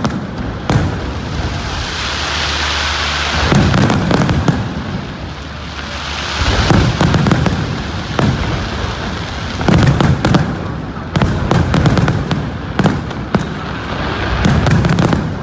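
Fireworks display: aerial shells going off in a rapid run of sharp bangs and booms, with hissing, crackling stretches swelling up twice between them.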